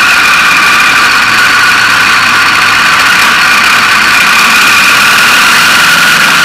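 KTM motorcycle engine running at a steady pitch, close to an action camera and very loud, with no revving or breaks.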